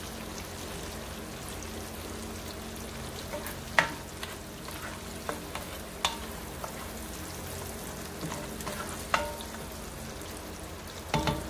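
Diced onion and tomato sizzling gently in oil in a skillet while being stirred with a spatula, which clicks against the pan a few times.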